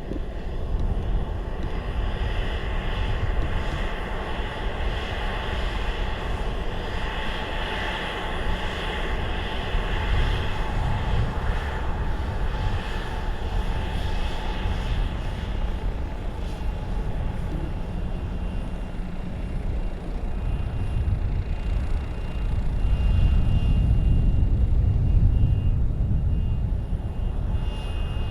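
Jet aircraft engines running with a steady whine and rumble, with gusty wind on the microphone. The low rumble grows louder about 23 seconds in.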